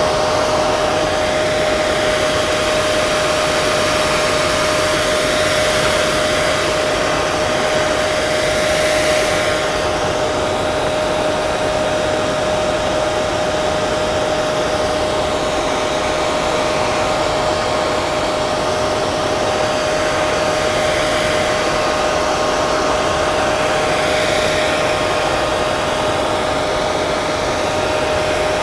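Hair dryer running continuously: a steady rush of air with a constant motor hum.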